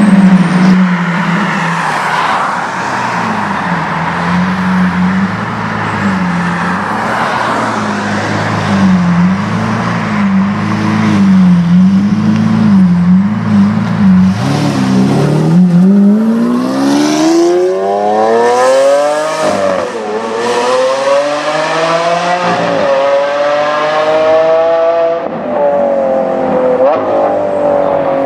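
Lamborghini Aventador's V12 with an Akrapovic exhaust running at low, steady revs that waver slightly, then accelerating hard about halfway through: the engine note rises steeply and drops sharply twice at the gear changes.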